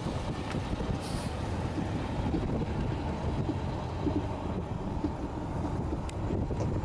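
Heavy truck engine running steadily, a low, even engine noise.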